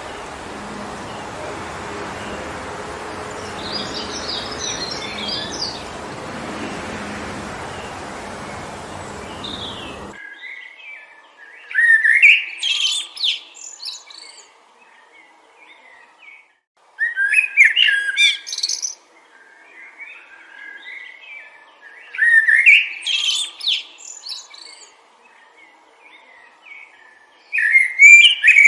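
Wind blowing through a forest, with a few faint bird chirps. It cuts off abruptly about a third of the way in. After that a songbird sings a short phrase of about two seconds, repeated four times at roughly five-second intervals.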